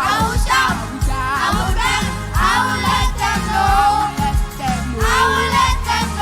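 Live church worship music: a band with bass and drums playing under voices singing a praise song.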